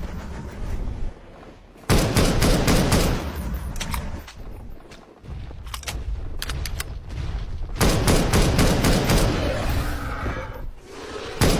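Edited sound effect of rapid volleys of sharp cracks like machine-gun fire, coming in several bursts with quieter gaps between.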